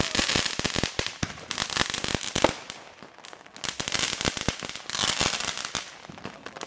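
Fireworks going off: dense runs of rapid cracks and pops over a hiss, in two long stretches with a quieter gap near the middle.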